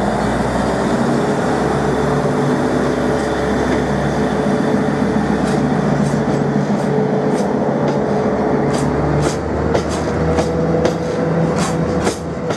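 Diesel locomotive of a freight train pulling away: a steady engine drone with a slowly rising whine, and from about halfway through a series of wheel clicks over rail joints.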